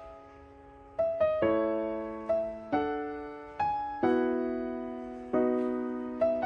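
Background music: slow, gentle piano chords, each struck and left to fade, after a brief pause about a second in.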